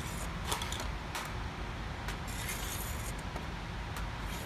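Steel dividers scribing and tapping on sheet metal while an arc is swung: a few light metallic clicks and scrapes over a steady background hum.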